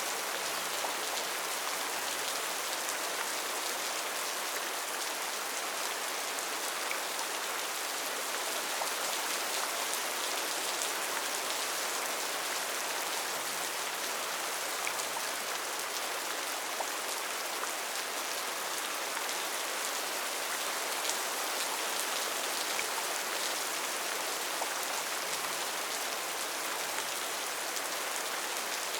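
Steady heavy rain falling in a rainforest, an even hiss with scattered drop impacts.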